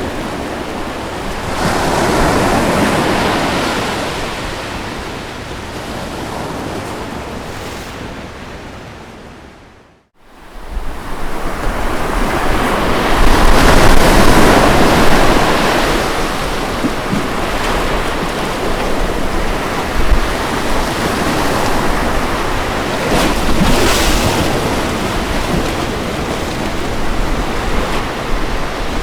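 Ocean waves breaking and washing up a beach in steady surges. About ten seconds in, the sound briefly fades almost to nothing and then swells back up.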